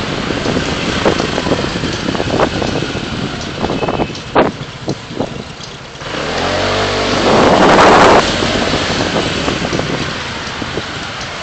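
Car driving through city traffic: steady road and traffic noise with scattered knocks in the first half, then a loud rushing sound that builds for about two seconds and cuts off suddenly.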